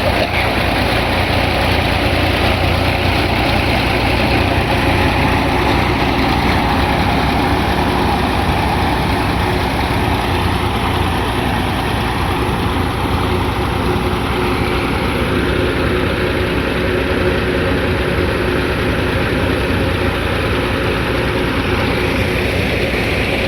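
Model 480 tractor's diesel engine running steadily while it drives a thresher. The engine's hum and the thresher's machinery blend into one continuous noise that does not change.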